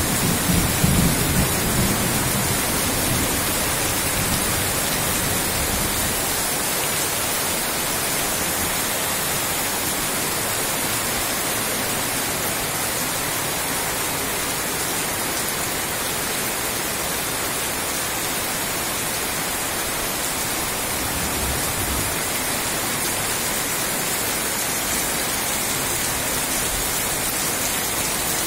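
Heavy rain pouring steadily, a dense even hiss of falling water. A low rumble fades out over the first few seconds.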